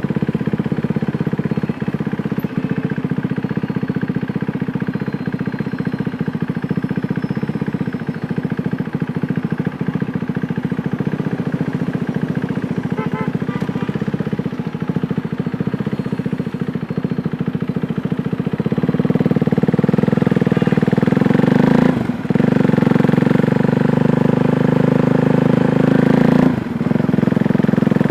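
KTM Duke 390's single-cylinder engine running under way, a steady note that grows louder about two-thirds of the way through, with two brief drops in level near the end.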